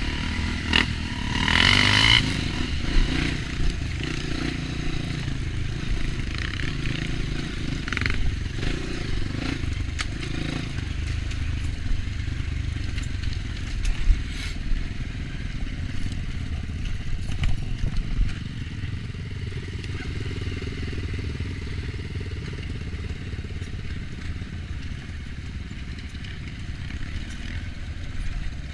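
Off-road dirt bike engine running along a trail, with scattered knocks and clatter from the ride. There is a louder burst about two seconds in, and the engine is quieter over the last third.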